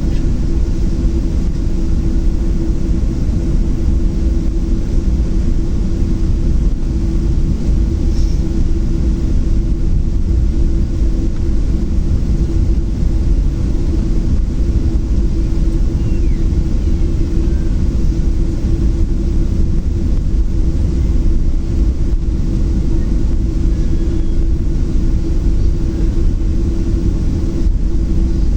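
Steady cabin rumble of a Boeing 737-700 with its CFM56-7B engines running, heard from inside the cabin, with a constant low droning hum over it.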